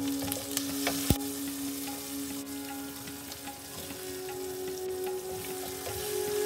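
Mustard seeds, garlic, shallots and curry leaves sizzling in hot oil in an enamelled pot as a wooden spatula stirs them, with scattered small pops and one sharp knock about a second in.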